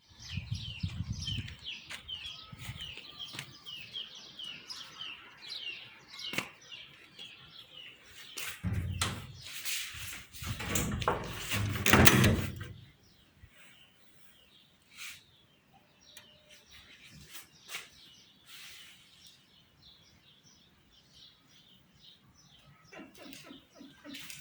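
Small birds chirping in a quick series of short high notes, several a second, for the first several seconds. Then a loud rush of noise that lasts a few seconds.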